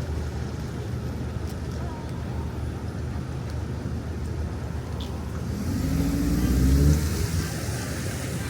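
Street traffic on a wet road: a steady engine rumble, then about five and a half seconds in a vehicle accelerates past, its engine rising in pitch and its tyres hissing on the wet pavement, loudest about seven seconds in.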